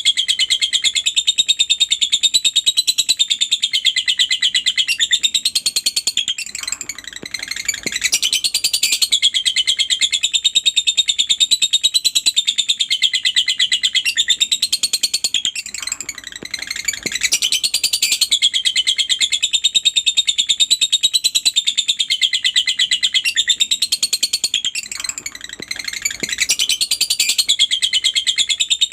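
Lovebird singing ngekek: long, fast, unbroken high-pitched chattering trills. They break off briefly three times, about every nine seconds, and start again each time.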